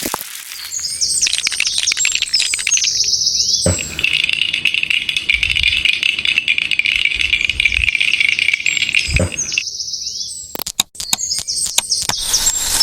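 Outdoor nature ambience of birds chirping over a steady high buzz, which changes abruptly a few times. A few sharp clicks come near the end.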